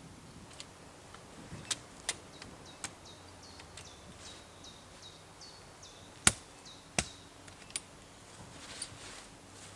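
A handful of sharp knocks or cracks at irregular intervals, the loudest about six seconds in, with a songbird's short high chirps repeating quickly and falling in pitch in the middle stretch.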